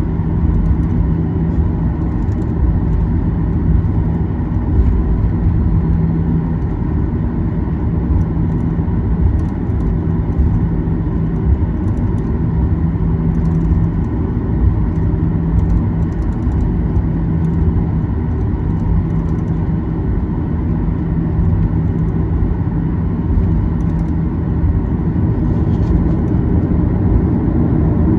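Boeing 737-800's CFM56-7B jet engines running at taxi power, heard from inside the cabin as a steady low rumble with a constant hum.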